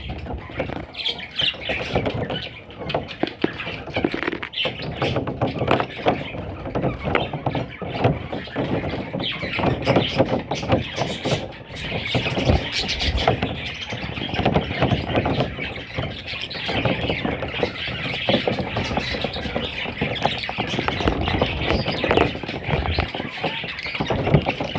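Budgerigars chirping and chattering, a continuous stream of many short, high chirps.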